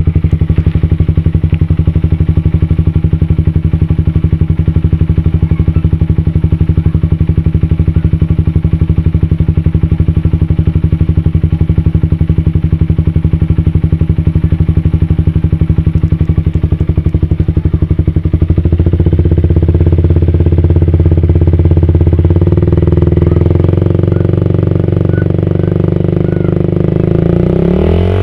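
Suzuki Satria FU's single-cylinder four-stroke engine running through an HNR racing exhaust, idling with a rapid even pulse. About 18 seconds in the revs rise and are held higher and louder, and near the end they climb quickly in a rev.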